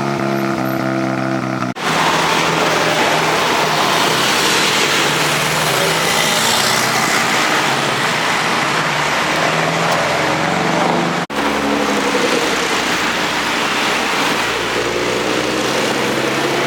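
Car engines and street traffic, cut together from short clips with two abrupt breaks. In the middle stretch a loud car drives past, its engine and tyre noise swelling to a peak and then easing off.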